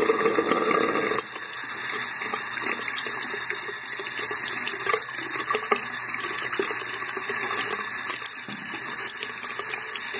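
Water running from a tap, left on until it runs warm. The flow is louder for the first second, then runs steadily.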